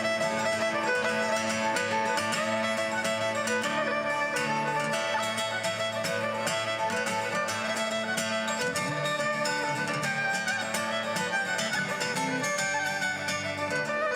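A folk band playing a traditional Scottish-style tune, with melody notes held and moving over a steady lower accompaniment.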